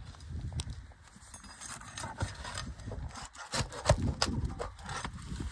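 Scraping, rubbing and irregular sharp clicks and knocks of a roofing tool and hands working on old asphalt shingles, loosening a shingle from its broken tar strip and nails. The loudest knock comes about four seconds in.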